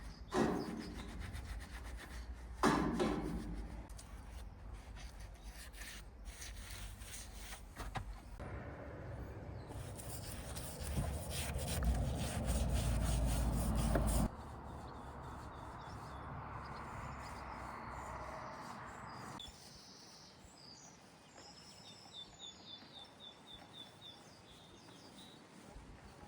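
Rubbing and scraping from hand work, with a few knocks early on and a louder, noisier stretch in the middle that cuts off suddenly. Small birds chirp in a short run of high notes near the end.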